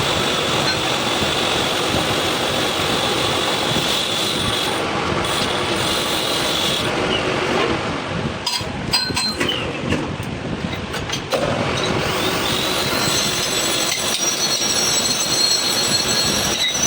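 Shaft-repair machining noise: a steady metal-on-metal grinding or cutting sound with a high whine, which drops out for a few seconds midway and then comes back.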